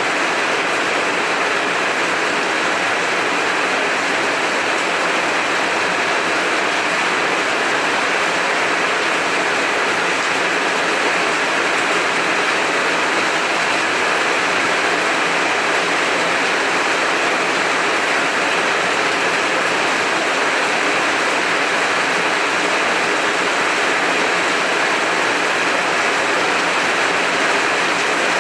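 Heavy rain falling, a dense, steady hiss with no breaks and no thunder.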